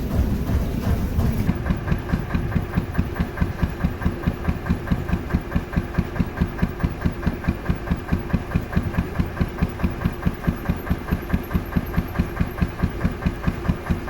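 Gardner 1L2 single-cylinder diesel engine running with an even, slow beat of about four firing strokes a second. About a second and a half in, a different, denser sound gives way to the plain engine beat.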